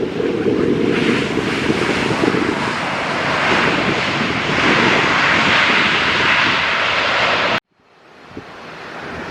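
Airliner's engines rushing loudly overhead as it comes in to land, the roar swelling in the middle, with wind buffeting the microphone. The sound cuts off abruptly about three-quarters of the way through.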